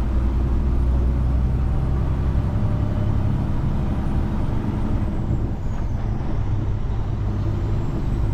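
Diesel engine of a Peterbilt 389 semi truck running steadily under way, a deep even drone.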